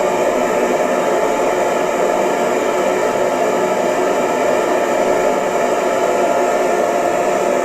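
Electric hair dryer running steadily: a constant airy whoosh with a faint steady motor hum.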